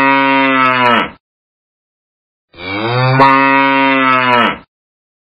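A cow mooing twice: the end of one long, low moo, then, after a pause of about a second and a half, a second moo of about two seconds, held at a steady pitch and cut off sharply.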